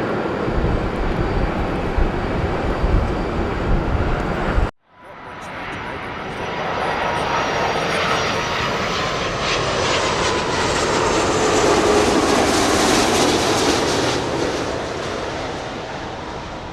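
Airbus A330 jet airliners on landing approach: a loud jet-engine roar with heavy low rumble cuts off abruptly about five seconds in, then a second A330's engine roar with a faint gliding whine swells as it passes, loudest a few seconds before the end, and begins to fade.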